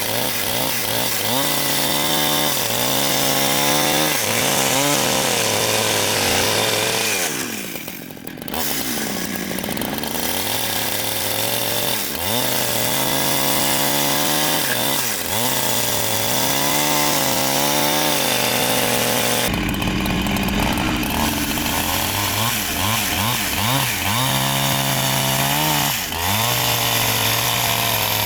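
Chainsaw-type petrol power tool cutting wood, its engine pitch repeatedly dropping under load and rising again as it frees up. The sound changes abruptly a little over two-thirds of the way through.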